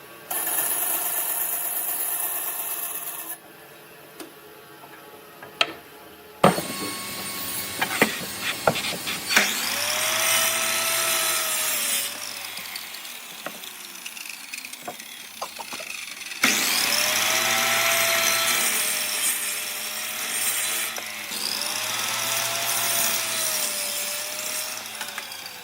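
Power tools working wood in several separate runs, with knocks and clicks between them. In the later runs a motor's pitch dips and recovers as it bites into the wood.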